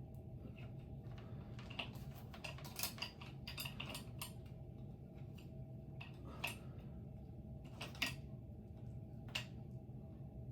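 Hands working with the ceiling fan's wiring and metal mounting hardware: scattered light clicks, clinks and rustles over a low steady hum, with a sharper clink about eight seconds in.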